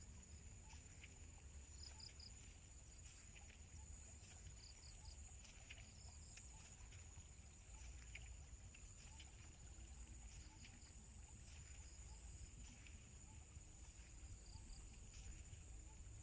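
Faint insects droning steadily at a high pitch, with short chirps in little groups of three and scattered soft ticks over a low rumble.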